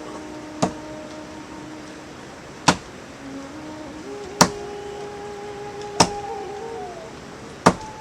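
Five sharp knocks, spaced about one and a half to two seconds apart, over soft held tones that shift pitch in steps like a slow melody.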